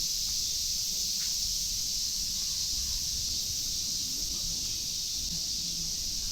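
Cicadas droning in chorus, a steady high sizzling hiss, over a low steady rumble.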